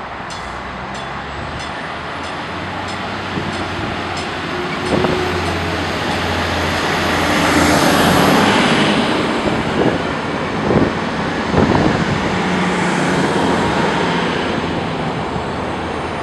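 Stadler GTW diesel multiple unit pulling away and passing close by. Its diesel engine hums steadily and its wheels clack sharply over the track several times. It is loudest about eight seconds in, then fades as it moves off.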